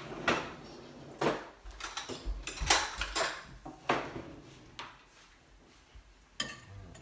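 Serving utensils clattering and scraping against a pan and plate while chicken is dished up: a run of irregular sharp clinks and knocks, loudest about three seconds in, thinning out near the end.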